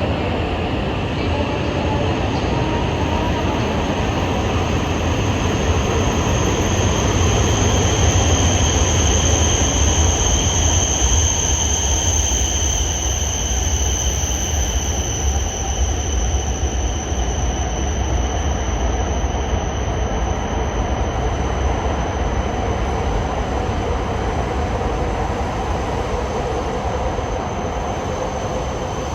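Shinkansen bullet train running at the platform: a low rumble with a steady high-pitched squeal over it, growing to its loudest about ten seconds in, then easing off.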